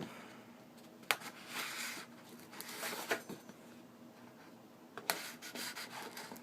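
Hands working at a package to pry it open: intermittent scratching and rubbing with a few sharp clicks, the clearest about a second in and again about five seconds in.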